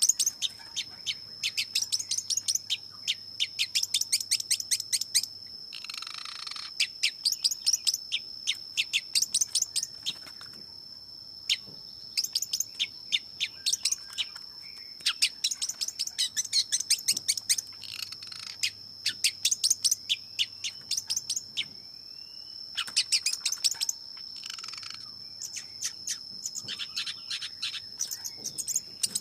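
Long-tailed shrike (cendet) singing in rapid runs of sharp, high chips lasting a few seconds each, broken by short pauses and a few harsh rasping notes. A steady high-pitched tone runs underneath.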